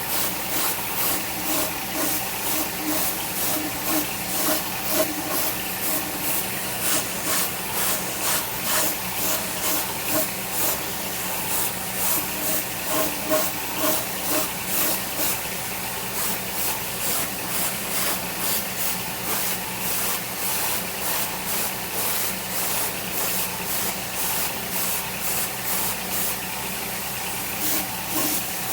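Stick (SMAW) arc welding with a 7018 electrode on a Yamaha DT 125 motorcycle frame: the arc keeps up a steady crackling hiss with quick pops, over a steady low hum.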